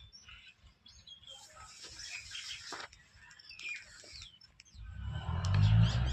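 Birds chirping in short, sliding calls. About five seconds in, a louder low rumble sets in.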